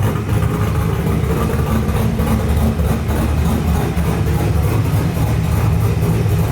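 LS V8 engine swapped into a Toyota Cressida, running at a steady idle.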